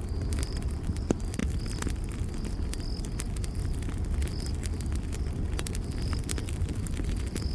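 Campfire burning with a steady low rumble and frequent sharp crackles and pops from the wood. Behind it a cricket chirps, a short high note repeating about once a second.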